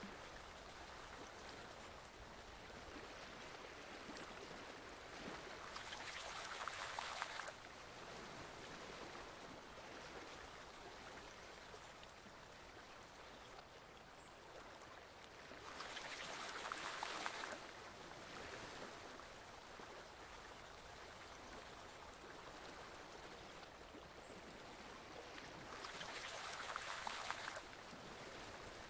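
Stream water flowing steadily. About every ten seconds it swells louder for a second or two, then drops back abruptly.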